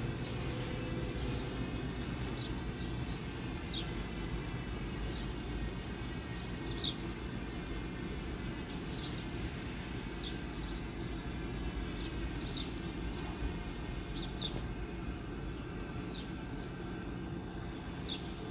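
Steady low hum of a stationary Deutsche Bahn ICE 4 high-speed train standing at the platform, with birds chirping in short calls throughout.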